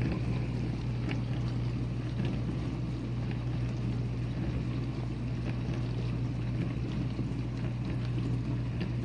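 Whirlpool dishwasher running its wash cycle: a steady low hum from the wash pump motor under a constant rush of water spraying inside the tub.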